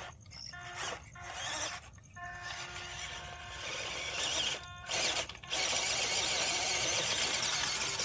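Radio-controlled car driving off-road, its motor and tyres heard in short bursts at first, then in one long loud run through the second half.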